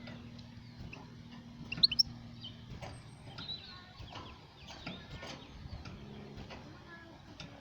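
A goldfinch calling in short, high chirps, the loudest two about two seconds in, with scattered clicks and a low steady hum underneath.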